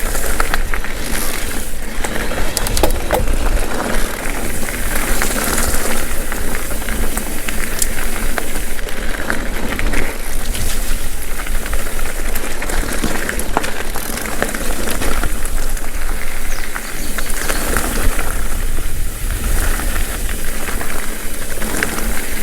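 Mountain bike rolling fast over a dirt trail: tyre noise, with the rattle and clicks of the bike and small stones, and wind rumbling on the microphone.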